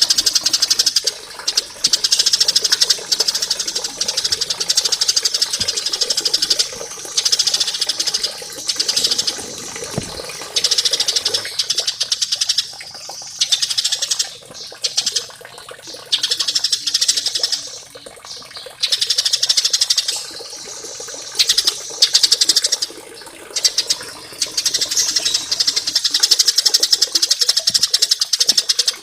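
Small songbird singing rapid, high-pitched trills in repeated bursts of one to three seconds, with short pauses between them.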